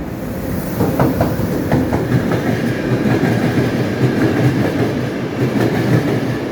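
A train rolling along the track, its wheels clattering over the rail joints in a series of sharp clicks over a steady rumble.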